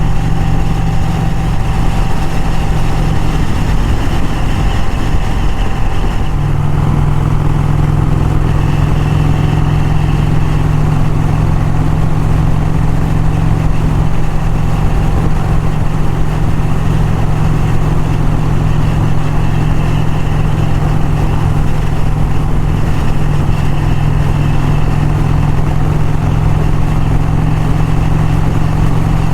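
1951 Vincent Rapide's 998 cc V-twin engine running at a steady cruise on the road, with a heavy rush of riding noise; the engine note gets louder about six seconds in.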